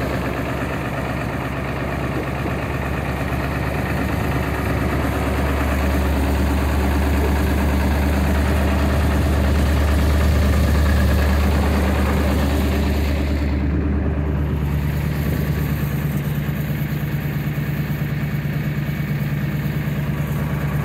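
Ford E-350's 7.3 Power Stroke V8 turbodiesel idling cold at about −8 °C, a steady low diesel drone. About two-thirds through, the note changes as the deepest hum drops away and a slightly higher hum takes over.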